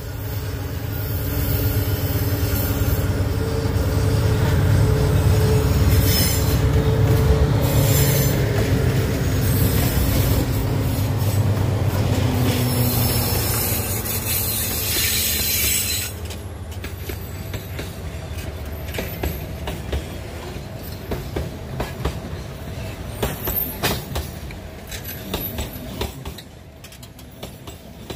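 Diesel-hauled limestone freight train passing close by: the locomotives' engines make a loud low rumble with a high wheel squeal for the first half. About halfway through the locomotives are past, and the quieter hopper wagons clatter over the rail joints in quick clicks, fading near the end.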